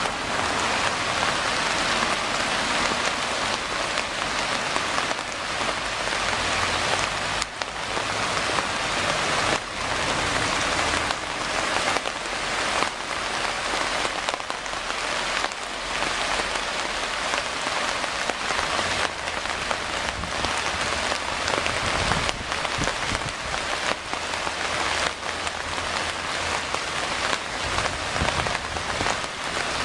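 Steady rain falling, an even hiss with many small drop impacts.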